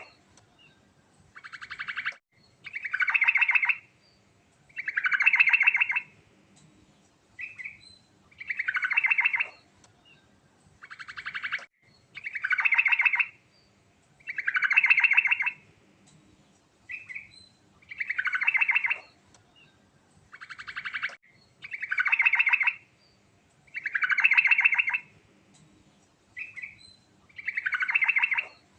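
Sooty-headed bulbul (trucukan) singing a continuous run of song phrases, one about every two seconds, each a short clear note followed by a rapid, finely pulsed trill.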